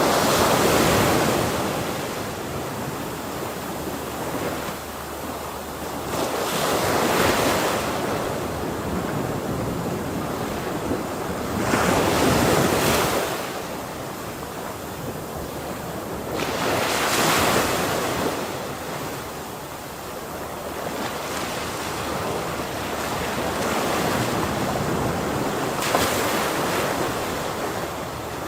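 Ocean waves breaking on a shore in a steady rhythm, a wave cresting about every five seconds over a constant wash of surf.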